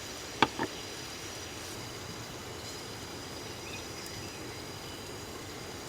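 Steady background hiss with two sharp clicks in quick succession about half a second in.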